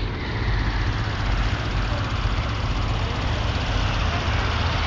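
Steady low engine drone of slow-moving highway traffic, with an even hiss of road and wind noise over it.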